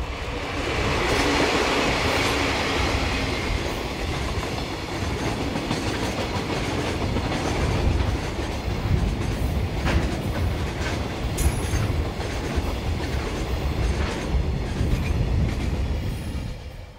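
Two JNR Class DD51 diesel-hydraulic locomotives passing at speed with their engines running, followed by a long train of tank wagons rumbling by with wheels clicking over the rail joints. The sound drops away near the end as the last wagon passes.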